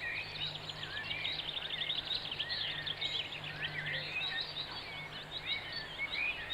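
Many small birds chirping and twittering at once in a dense, continuous chorus, over a faint steady low hum.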